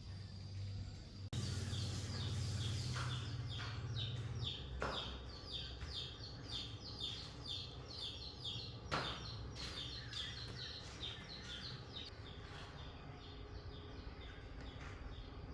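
A bird calling in a fast, even series of short falling chirps, about three a second. The calls start suddenly about a second in and fade near the end, over a low hum for the first few seconds and a couple of sharp knocks.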